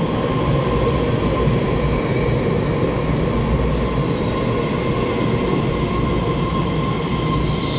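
EMU3000 electric multiple unit express train running past along the platform: a steady low rumble of wheels on rail with a thin, steady whine above it, echoing in an underground station.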